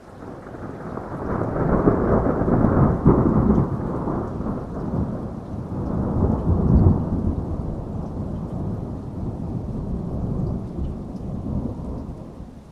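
Thunder rolling over heavy rain: a deep rumble swells over the first couple of seconds, peaks twice, and dies away near the end, with the rain hissing steadily underneath.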